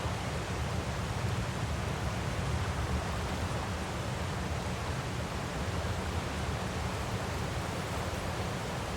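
Recorded waterfall, a steady, unbroken rush of falling water, heaviest in the deep low end.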